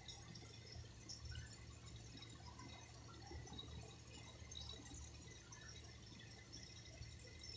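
Water trickling and dripping: a constant patter of small drops and splashes, faint, over a low steady hum.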